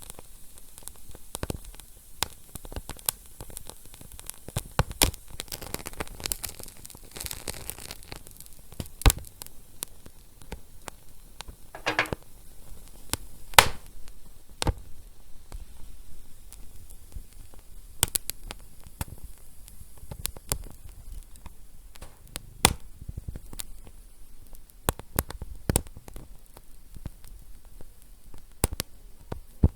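Wood fire crackling: irregular sharp pops and snaps over a soft, steady hiss, with a longer rush of hissing about seven seconds in.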